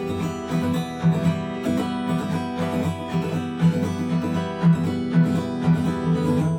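Acoustic guitar strummed in the 'galop' pattern, quick groups of three strokes (down, up, down) repeating in a steady, fast rhythm. The strings are old, which the player says makes them dull and short on sustain.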